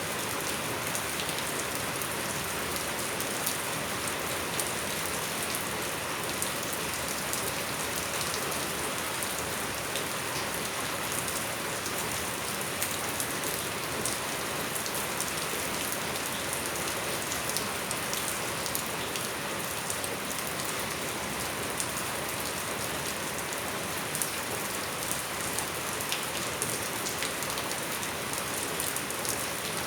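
Steady rain falling on surfaces, a constant hiss peppered with many small, sharp drop ticks.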